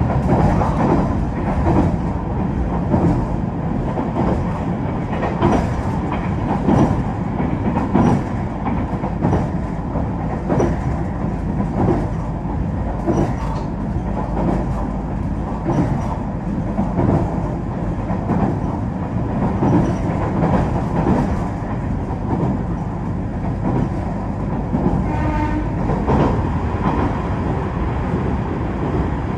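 A train running at speed, heard from inside the passenger car: a steady rumble with the wheels clacking over rail joints at uneven intervals. A brief higher-pitched tone sounds shortly before the end.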